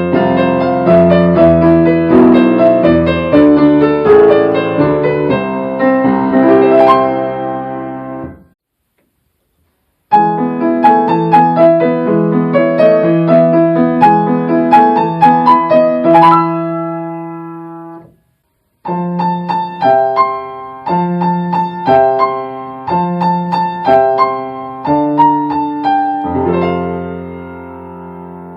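Solo piano playing three short Japanese train station departure melodies (JR East hassha melodies) one after another, each ending in a fade with a brief pause before the next.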